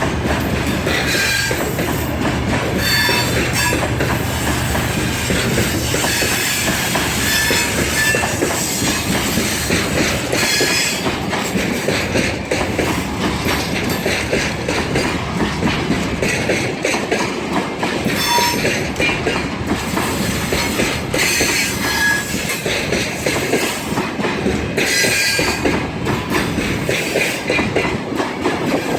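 Freight train wagons rolling past, the wheels clattering over the rail joints, with short, high wheel squeals now and then.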